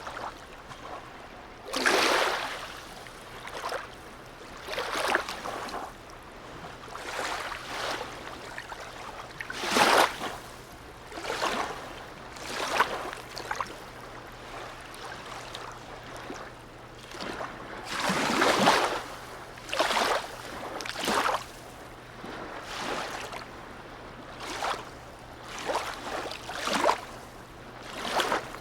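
Small sea waves lapping and splashing against the harbour side in an irregular rhythm, a slap every one to two seconds.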